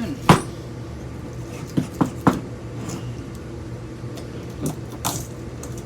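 Scattered sharp metal clinks and knocks from a ceiling fan motor being taken apart by hand for its copper. The loudest comes about a third of a second in, a few more follow around two seconds in, and there is a short scrape near the end, all over a steady low hum.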